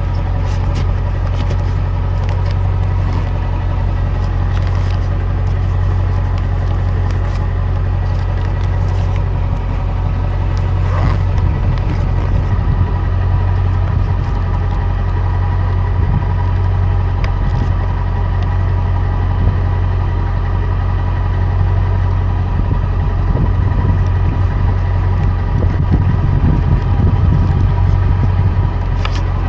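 Vehicle engine idling steadily, a constant low hum, with scattered light clicks and knocks during the first half.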